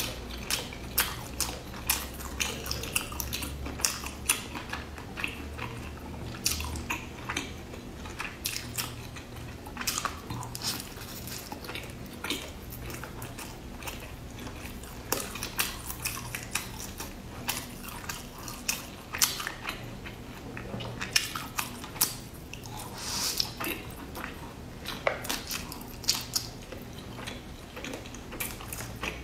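Close-miked chewing and biting of a rice dish with meat and salted egg yolk: irregular wet mouth sounds and sharp crackly clicks, with the occasional light clink of a fork.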